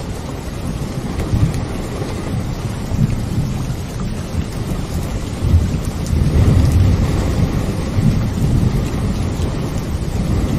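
Steady rain with a low rumble of thunder that swells about halfway through.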